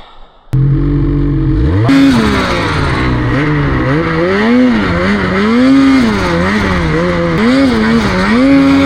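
Snowmobile engine starting abruptly at a steady low pitch, revving up a little before two seconds in, then rising and falling in pitch over and over as the throttle is worked while riding.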